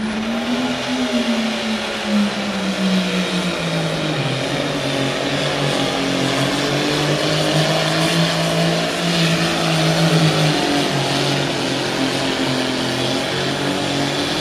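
Outlaw super farm pulling tractor's diesel engine running hard under load. Its pitch rises briefly near the start, drops about four seconds in, then holds fairly steady.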